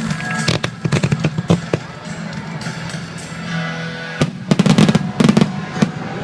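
Aerial fireworks bursting and crackling in two quick clusters, the first about half a second in and a louder one after about four seconds, over steady background music.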